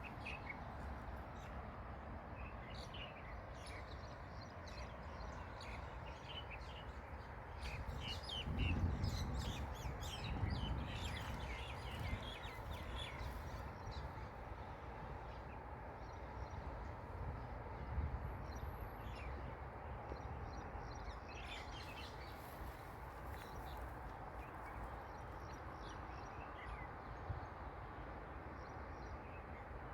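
Small birds chirping and twittering in quick short calls over a steady outdoor hiss, busiest in the first half and again about two-thirds of the way in. Low rumbling swells about a third of the way in are the loudest sounds.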